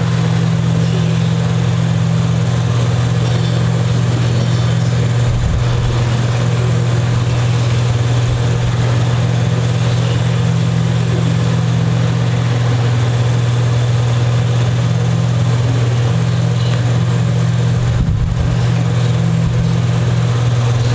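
Steady low machine hum that runs throughout without change, with a few soft handling bumps about five seconds in and near the end.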